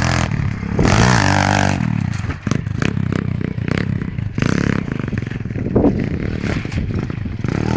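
Pit bike engine running, its pitch rising and falling as it revs, with clattering and scraping noise over it.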